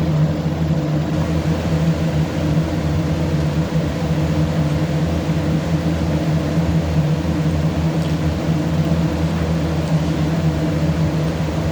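A loud, steady mechanical hum with a low droning pitch that does not change.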